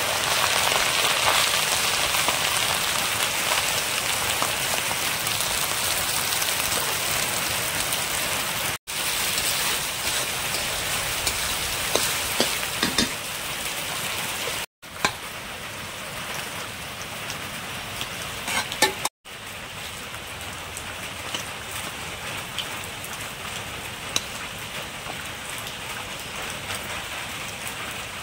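Food sizzling in hot oil in a cooking pot, a steady dense hiss that breaks off briefly three times. A few sharp clinks and scrapes of a spoon against the pot come in the middle.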